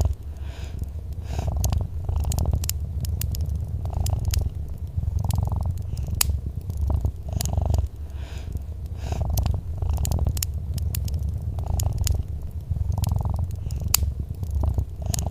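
Domestic cat purring steadily, a low rumble swelling and easing about once a second, with sharp crackles and pops from a wood fire scattered throughout.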